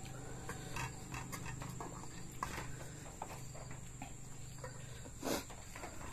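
Close-up mouth sounds of someone eating raw beef: chewing and lip-smacking as a run of small, irregular wet clicks, with one louder smack about five seconds in. A low hum runs underneath and stops shortly before that smack.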